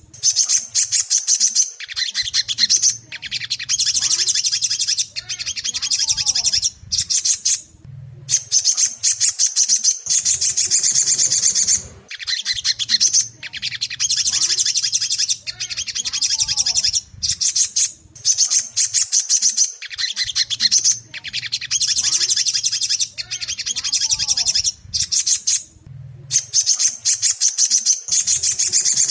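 Crimson sunbird (sogon) song: rapid, high-pitched chattering trills in phrases of two to three seconds with short breaks, repeating over and over. It is a lure recording played to stir caged sogon into singing. A faint low hum runs underneath.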